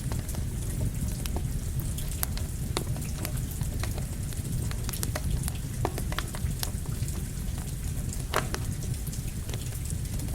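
Steady rain falling together with a crackling campfire: a continuous low rush with frequent sharp pops and ticks scattered through it.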